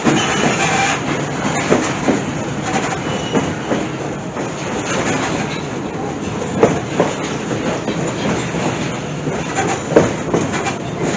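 Passenger train in motion heard from aboard a coach: a steady rumble of wheels on the rails, with scattered clicks and knocks at irregular intervals.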